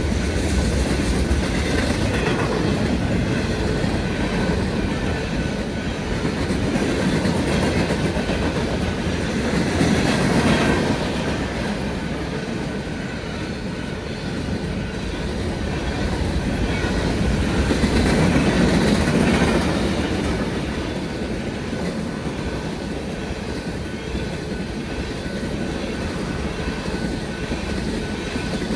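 Union Pacific freight train rolling past at a grade crossing: a steady loud rumble of wheels on the rails, swelling louder twice.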